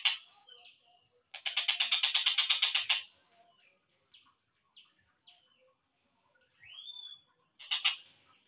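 Tengkek buto kingfisher call, slowed down: a loud rapid rattle of about eight pulses a second lasting under two seconds, then faint scattered chirps, one upward-sliding note and a short burst of the rattle near the end.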